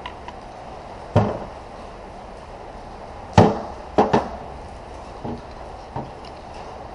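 A series of sharp knocks and clunks from parts being handled during transmission work, about six at uneven intervals. The loudest comes about three and a half seconds in, with a quick double knock just after it.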